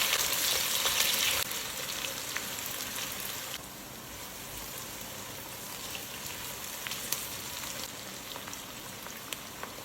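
Food sizzling and frying in a hot pan: a steady hiss with scattered small crackles and pops. It drops noticeably quieter about a second and a half in and again around three and a half seconds in.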